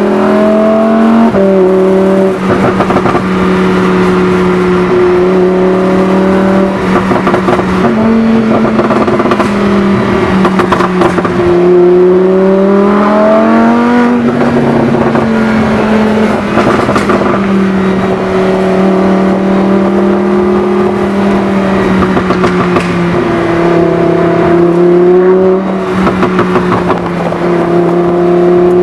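2015 Lamborghini Huracán's V10 engine through a Fabspeed Supersport exhaust, running loudly under sustained throttle. The pitch mostly holds steady, rising and falling about halfway through and again briefly near the end.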